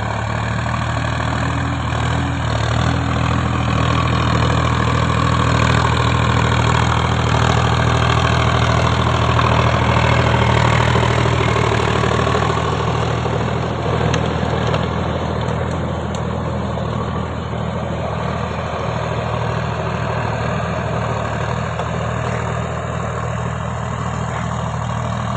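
Tractor's diesel engine running steadily at idle, a little louder for a few seconds in the middle.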